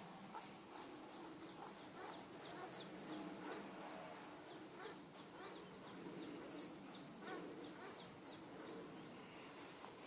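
A bird calling: a long, even run of short, high, downward-slurred notes, about three a second, that stops shortly before the end.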